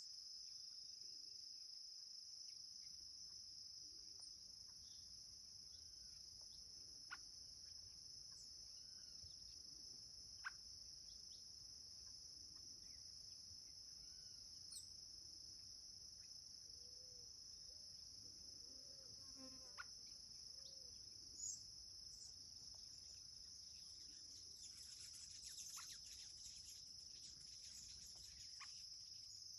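Faint, steady, high-pitched chorus of insects, with a few short, soft bird calls and scattered clicks; the chorus grows busier near the end.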